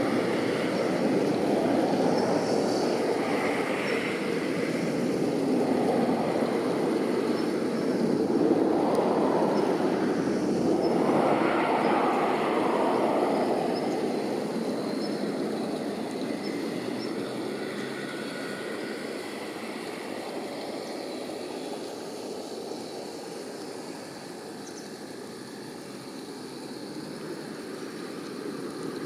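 Rumble of distant vehicle noise, swelling around the middle and fading slowly over the second half.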